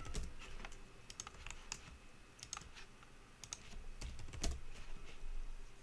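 Computer keyboard typing: irregular, scattered keystrokes and clicks.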